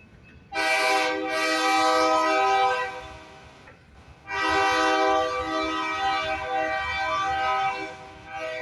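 Diesel locomotive air horn sounding two long blasts, each a chord of several tones, with a softer third blast starting near the end, over the low rumble of the passing train.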